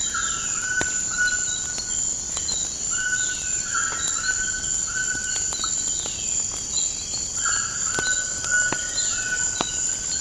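Wood fire crackling with scattered sharp pops, over a steady high-pitched insect drone and a bird repeating short whistled notes every second or so.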